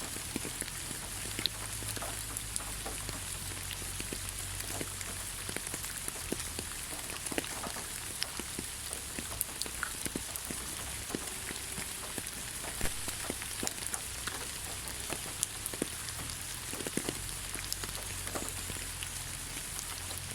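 Steady rain falling on the ground: an even hiss with many separate drops ticking and pattering at irregular moments, over a low rumble.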